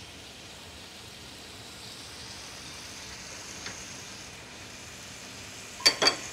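Sausage and onion frying in a saute pan on an electric coil burner: a steady, soft sizzle as the pan comes up to heat. Near the end, two sharp clacks as a wooden spatula is set down on a spoon rest.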